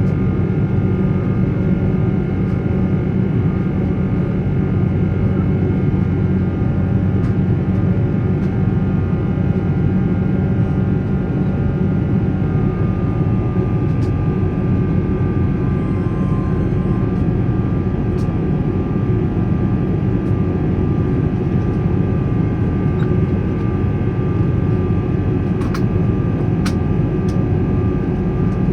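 Steady in-cabin drone of a Boeing 777-300's Rolls-Royce Trent 800 engines: a heavy low rumble with several steady tones over it. A further steady tone joins about halfway through, and there are a few faint clicks near the end.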